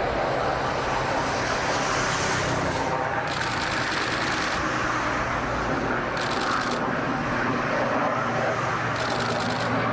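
Aircraft engines running: a steady loud rushing noise with a low hum underneath, with short spells of added high hiss a few times.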